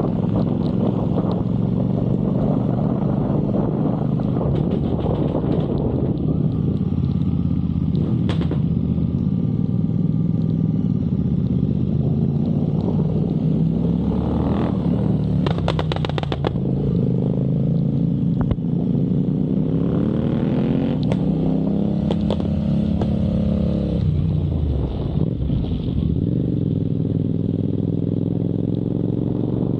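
Motorcycle engine running while riding, with road and wind noise. The revs rise and fall as the rider changes speed, dropping and climbing again twice, about halfway and about two-thirds of the way through.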